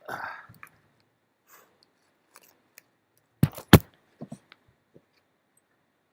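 Handling noise from a wheel change: a brief rustle, then two loud sharp knocks about three and a half seconds in, followed by a few lighter clicks.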